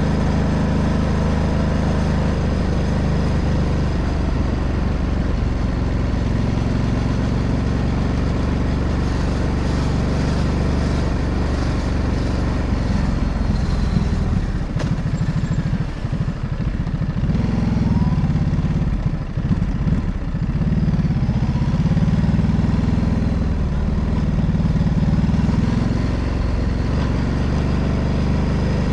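Ducati DesertX Rally's 937 cc L-twin engine running under way, with a steady note at first. About halfway through, the note dips and wavers for several seconds, with the throttle easing off and coming back on, then settles into a steady pull again.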